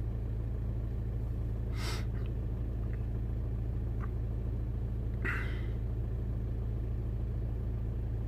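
Audi A3 8P engine idling steadily at about 800 rpm, heard from inside the car, with two short noises about two and five seconds in.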